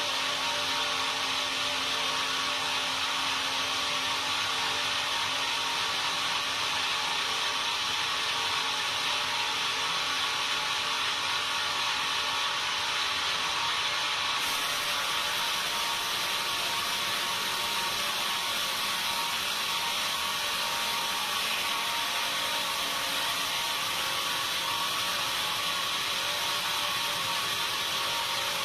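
Sawmill saw running steadily while sawing timber: a continuous machine noise with a steady whine, and a higher hiss coming in abruptly about halfway through.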